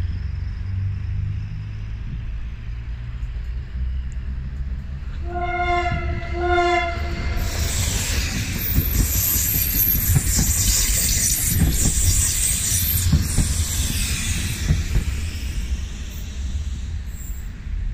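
Končar low-floor electric train sounding two short horn blasts about five seconds in, then running close past with wheels rumbling and hissing on the rails before fading away.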